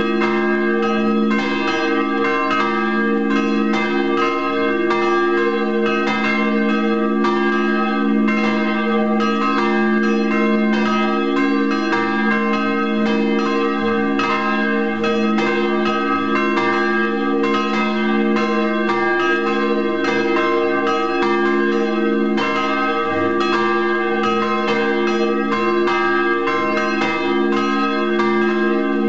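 Three church bells swung by motor drives, ringing together: overlapping clapper strikes in an irregular, steady peal over the sustained hum of their tones.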